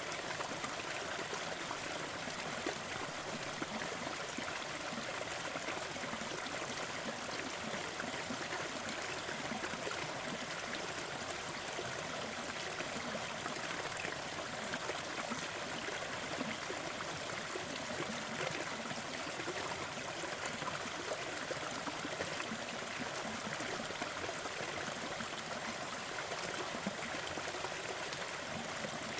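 Waterfall: falling water splashing and rushing in a steady, even wash.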